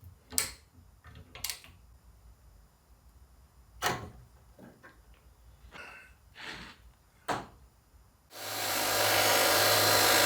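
A few sharp knocks and clicks of metal parts being handled. About eight seconds in, a mains power tool starts suddenly and runs loud and steady, with a low hum under a harsh hiss.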